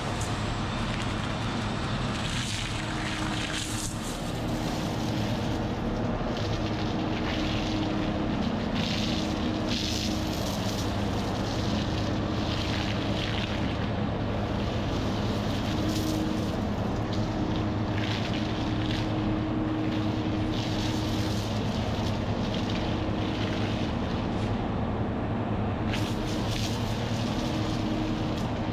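Concrete mixer truck's diesel engine running steadily while water is sprayed over the truck during its wash, the hiss of the spray surging and fading every second or two.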